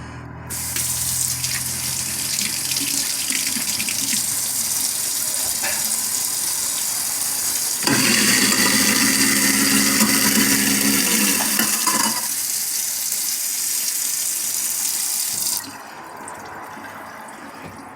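Faucet water running into a kitchen sink over a steady low motor hum, the garbage disposal run with water after its reset. The water gets louder for a few seconds in the middle; the hum stops about two-thirds of the way in, and the water shuts off shortly after.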